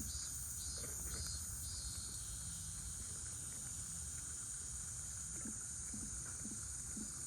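Steady, high-pitched insect chorus over a constant low rumble, with a faint pulsing call repeating about twice a second in the first second or so.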